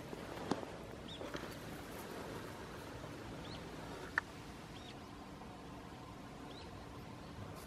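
Faint outdoor ambience with a few short, high chirps from small birds scattered through it, a soft click early, and one brief sharp high note about four seconds in.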